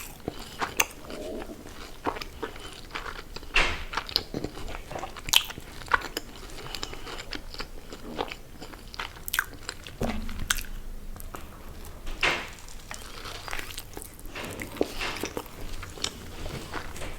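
A person biting and chewing crunchy fast food, with irregular sharp crunches spread through the chewing.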